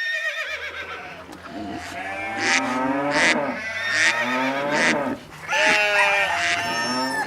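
Farm animals calling: a run of long, wavering calls one after another, cut off suddenly near the end.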